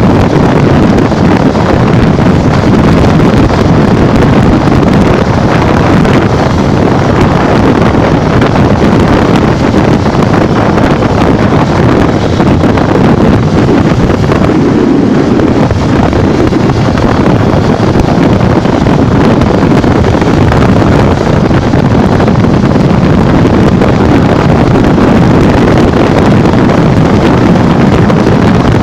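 Heavy, steady wind noise buffeting the microphone on a Honda NXR 150 Bros motorcycle ridden at speed, with the bike's engine running underneath.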